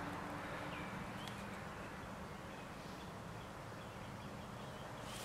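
Quiet outdoor background with a few faint bird chirps, about a second in, over a steady low hum.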